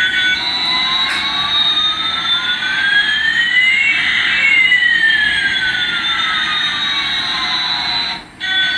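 Electronic sound effect: two synthetic tones glide in opposite directions, one falling and one rising, cross about four seconds in, then cut off near the end.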